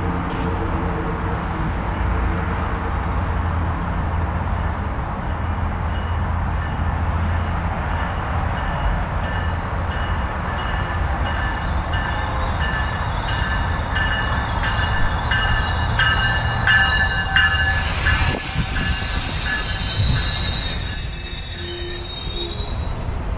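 GO Transit diesel commuter train pulling into the station, running with a steady low rumble. High-pitched squealing from its brakes and wheels builds as it slows and is loudest near the end.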